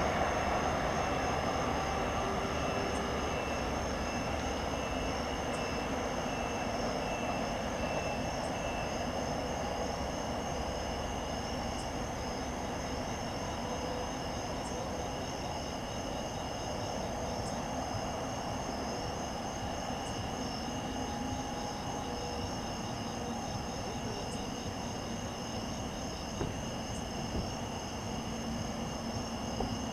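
Departing NJ Transit push-pull train, its ALP-46 electric locomotive at the rear, running away into the distance as a rumble that slowly fades. Crickets chirp steadily over it.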